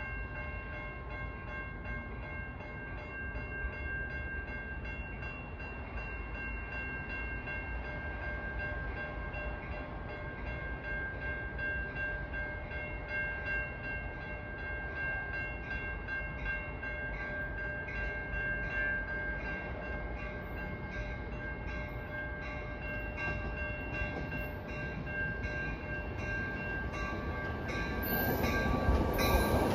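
Railroad train: a steady whine of several even tones over a low rumble, with a regular light ticking. It grows louder over the last couple of seconds as the train comes closer.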